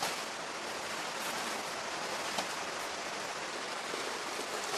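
Steady rushing of running water, an even hiss with no rhythm or pitch.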